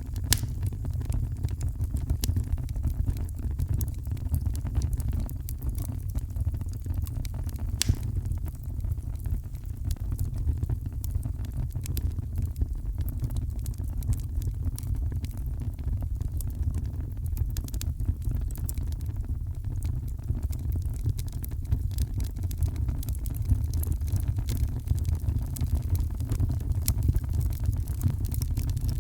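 Heavy rain with a wood fire crackling: a steady deep rumble under scattered sharp crackles and pops from the fire.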